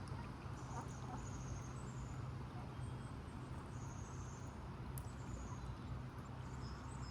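Small birds chirping in short, high, thin phrases that fall slightly, repeating every second or so, over a steady low hum.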